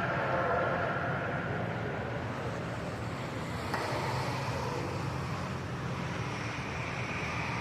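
Steady outdoor car and traffic noise, with engines running low underneath, a faint falling tone in the first second, and a single sharp click about four seconds in.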